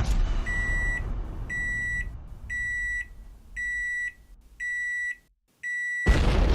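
Electronic beeper sounding six even beeps of one pitch, about one a second, each lasting about half a second. Near the end a loud rush of noise comes in.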